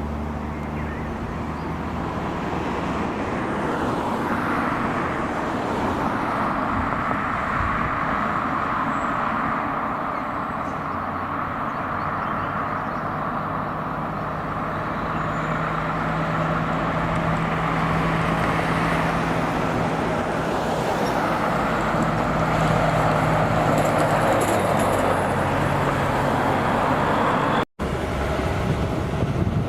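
Heavy trucks driving past on a highway: steady tyre and road noise, with a truck engine's hum rising through the middle and fading again. The sound cuts out for an instant near the end.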